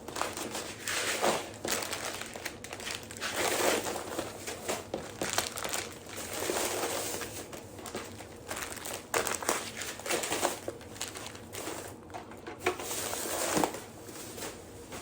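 Plastic grocery bags rustling and crinkling in irregular bursts as items are handled and taken out of them.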